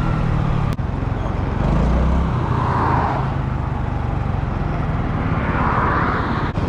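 Honda Navi's small single-cylinder engine running while the scooter-style bike is ridden along the road, a steady low drone under a rushing noise that swells briefly twice.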